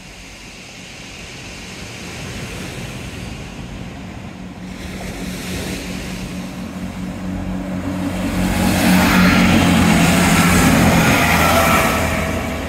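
Diesel multiple-unit passenger train approaching and passing close by, its engine hum and wheel noise growing louder to a peak about three-quarters of the way in, then easing slightly.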